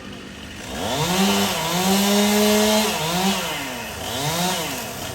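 Two-stroke Stihl chainsaw revved up from idle about a second in and held at high revs for about two seconds, then dropping back and blipped up twice more.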